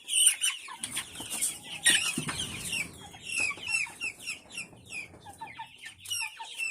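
A flock of young chickens calling: many short, high, overlapping peeps and clucks, with a louder burst of noise about two seconds in.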